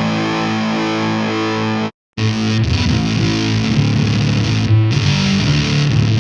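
Distorted electric guitar played through the Neural DSP Mesa Boogie Mark IIC+ amp-modeling plugin, with held notes ringing out. The sound cuts out completely for a moment about two seconds in, then the playing resumes.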